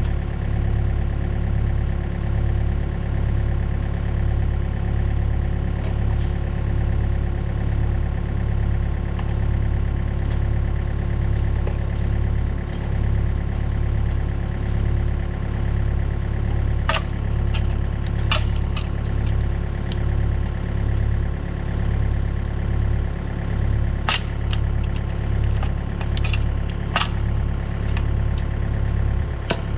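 Diesel engine of a Takeuchi TB153FR compact excavator running steadily at idle, with a slow throb in its level. Several sharp knocks break in from about halfway through, clustered near the end.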